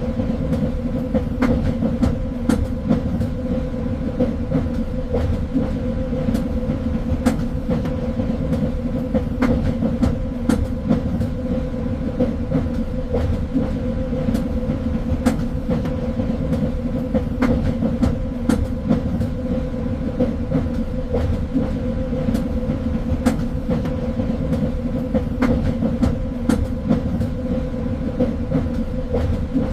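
Train running steadily on the rails: a low rumble under a constant hum, with scattered sharp clicks of the wheels over rail joints.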